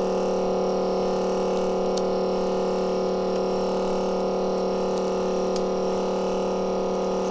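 Steady electrical hum from workshop equipment: a stack of constant tones that does not change, with a few faint ticks.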